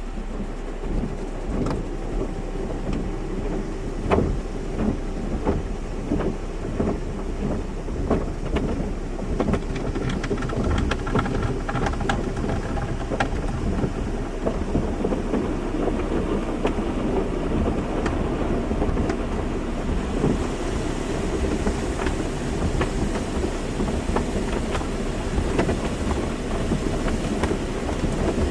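Car wash: water spray drumming on a car's body with many small rapid knocks over a low rumble and a faint steady hum. A higher hiss of spray grows stronger about twenty seconds in.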